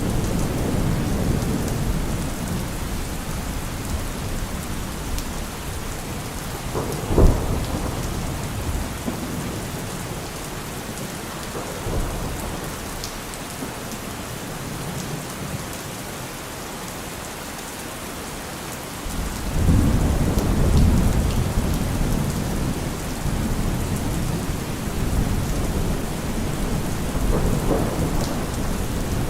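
Steady rain falling, with thunder rumbling low at the start. A short loud thunderclap comes about seven seconds in, and a long heavy rumble rolls in about two-thirds of the way through.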